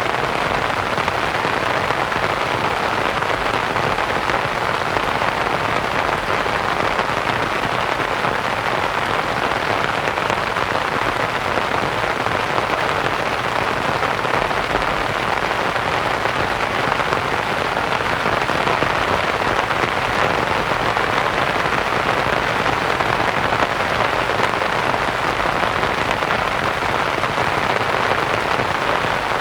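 Steady rain on a canvas tent mixed with white noise, a continuous even hiss with dense patter and no distinct drops standing out.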